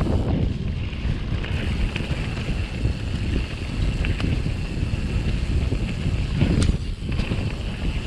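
Wind buffeting the helmet-mounted action camera's microphone over the rumble and rattle of a mountain bike riding down a rough trail. A few sharp knocks come from the bike over the terrain, the clearest about six and a half seconds in.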